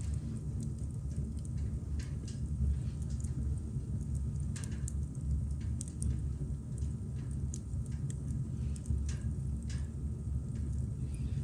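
Campfire crackling: scattered sharp pops and snaps from the burning wood, about one a second, over a steady low rumble.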